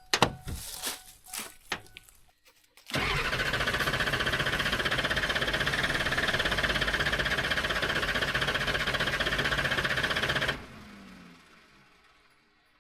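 A Ford F-450's 7.3 L Power Stroke diesel is cranked by its starter for about seven seconds without catching, then the starter stops and the engine spins down. A few clicks come before it. The owner is almost sure the no-start comes from oil having drained out of the high-pressure oil pump reservoir, so the system won't prime.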